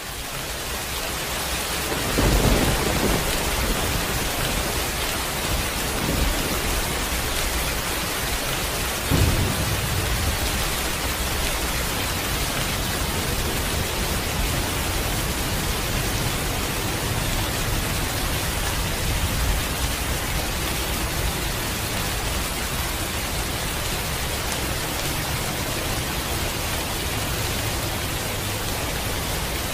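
Heavy rain pouring down steadily, swelling up over the first two seconds, with short deep rumbles about two, six and nine seconds in.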